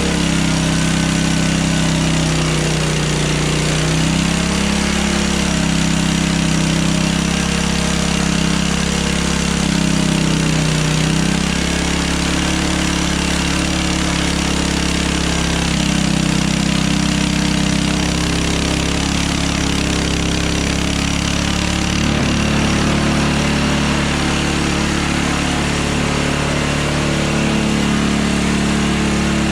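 Hudson Hunter sawmill running steadily: the engine's drone holds at an even speed, with a dense hiss laid over it. The pitch sags and wavers briefly a few seconds in, then steadies.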